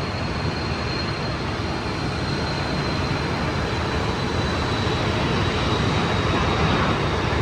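Steady aircraft turbine noise: a dense rushing with a thin high whine that drifts slowly down in pitch, growing a little louder near the end.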